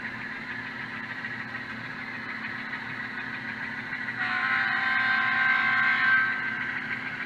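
An ESU sound decoder in an HO scale U23B model locomotive plays its GE diesel engine sound at a steady idle through the model's small onboard speaker. About four seconds in, a multi-note air horn sounds for about two seconds over the engine.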